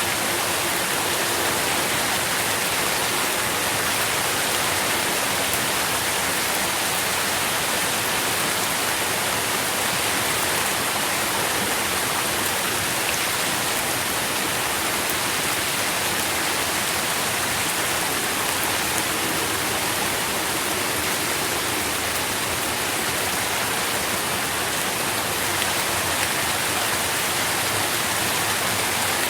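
Steady, even rain falling and pattering on leaves and ground, a dense hiss with faint scattered drop ticks.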